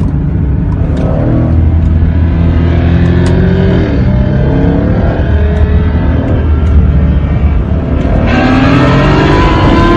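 Car engine revving hard, its pitch climbing and dropping. About eight seconds in it switches abruptly to a brighter-sounding engine.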